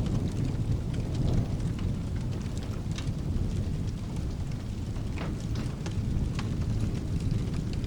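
Steady rain with a continuous low rumble of thunder, and scattered sharp crackles and pops from a wood fire in a fireplace.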